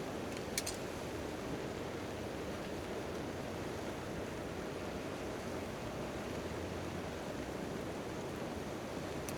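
Steady rain falling on a tent tarp, a dense even hiss. A sharp pop from the campfire comes about half a second in and another near the end.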